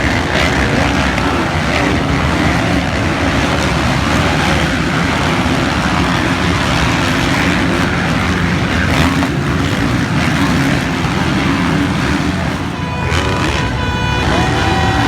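Several motocross bike engines running at once, a loud, steady blend of engine noise.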